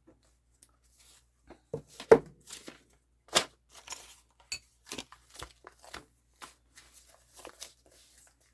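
Paper rustling and being handled, with scattered light taps and clicks; the sharpest clicks come about two seconds and three and a half seconds in.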